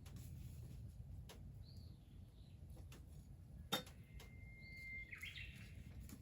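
Faint outdoor bird calls: a single held whistle that breaks into a quick rising flourish, with softer calls before it. A low rumble and scattered faint clicks run underneath, with one sharp click a little before the whistle.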